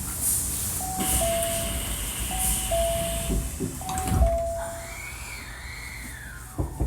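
Door-closing chime inside a Hankyu 1300 series train: a two-note falling chime sounding three times, then a thump about four seconds in as the doors shut. After it comes a whine that rises and then falls away.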